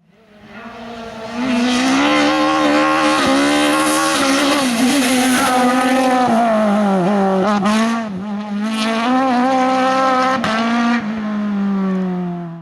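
Race car engine at high revs, fading in over the first second or so, with several quick drops in pitch as it shifts gear, then cutting off suddenly at the end.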